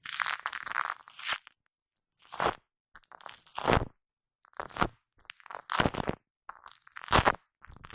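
Shaving foam being squished and rubbed right on a microphone: soft, sticky squishes that come as a string of separate bursts, roughly one a second, with short silences between.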